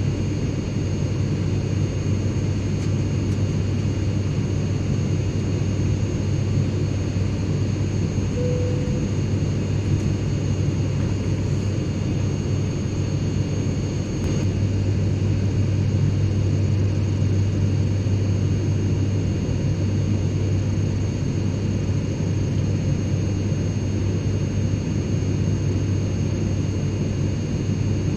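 Airliner cabin noise in flight: a steady engine and airflow drone with a strong low hum and faint steady high-pitched whines.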